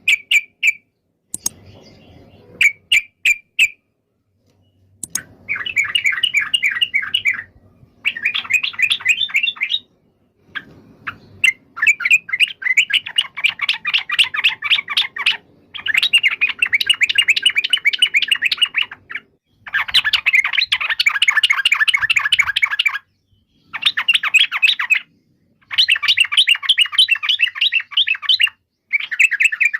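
Yellow-vented bulbul (trucukan) singing in bouts of fast, chattering repeated notes, each bout lasting one to four seconds with short pauses between.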